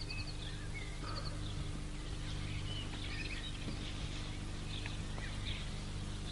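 Faint bird chirps and short trills scattered through, over a steady low hum and hiss.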